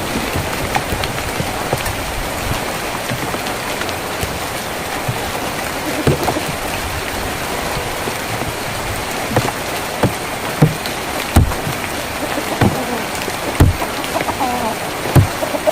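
Rain falling steadily on a tin roof, an even patter, with louder single drops knocking on the metal at irregular intervals from about six seconds in.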